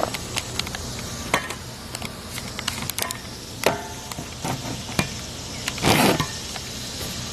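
Scattered light clicks and knocks from handling a wood splitter's engine controls and frame, with a short, louder scraping rasp about six seconds in. The engine is not running.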